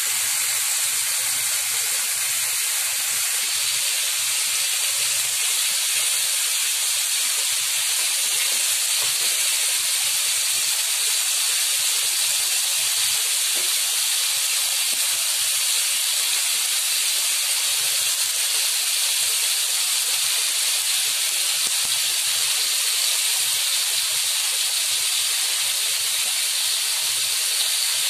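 Chicken breast pieces sizzling in a hot pan: a steady hiss that holds level throughout.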